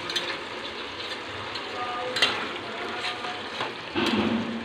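Chicken pieces sizzling in oil in a stainless steel pot over a high flame. A few short spoon clicks come as the pieces are stirred.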